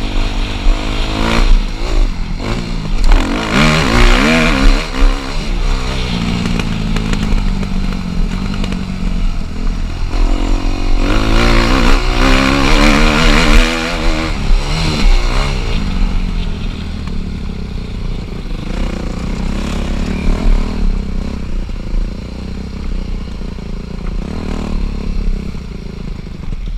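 Dirt bike engines revving hard, rising and falling in pitch through the gears. There are two louder spells: one about two to five seconds in and a longer one about eleven to fifteen seconds in. Lower engine noise runs between them.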